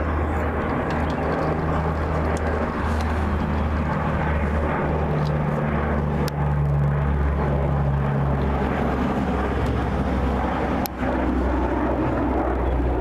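Fixed-wing airplane engine running, a steady low drone with a rushing noise over it. There are two brief sharp clicks, one about halfway and one near the end.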